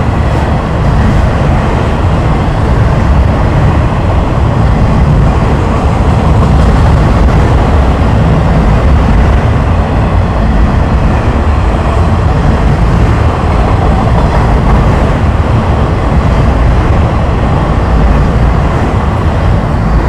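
Freight train of autorack cars rolling past close by: a loud, steady rumble and rattle of steel wheels on the rails.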